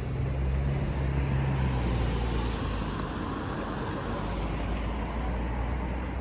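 A vehicle engine running with a low steady hum, and the rush of its passing swelling about a second in and easing off, with some wind on the microphone.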